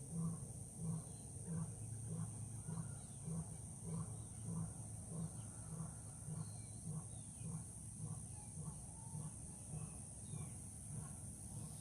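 Deep, rhythmic grunts repeating a little under twice a second, typical of a lion's roaring bout, over a steady high buzz of insects.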